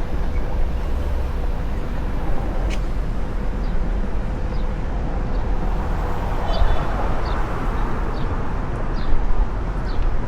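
Outdoor city ambience heard while riding: a steady low rumble of traffic and wind noise. From about four seconds in, short high chirps come every second or so.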